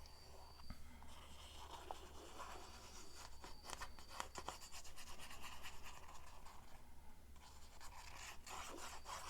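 Faint scratching, tapping and rubbing of a glue bottle's nozzle tip working along paper, with cardstock being handled; a string of small ticks and scrapes, busiest in the middle and near the end, over a low steady hum.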